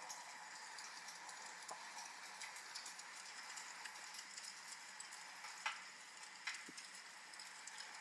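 Wood fire crackling with many small ticks and a few sharper pops a little past the middle, over a steady hiss of rain.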